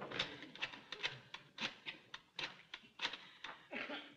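A series of light, irregular clicks and taps, roughly three a second, with a short denser cluster near the end.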